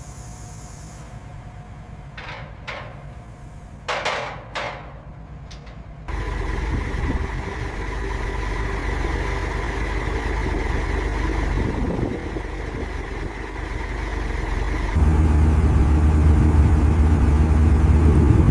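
Heavy machinery engine running, with a few short metallic knocks in the first five seconds. The sound changes abruptly twice, growing louder each time and ending in a deep, steady drone.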